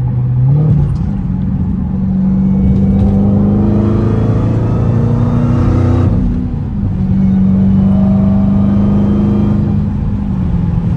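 Dodge Hellcat's supercharged 6.2-litre HEMI V8 with a mid-muffler delete, running while driving. The engine note steps up just under a second in, holds steady, dips briefly about six seconds in, then holds again and eases off near the end.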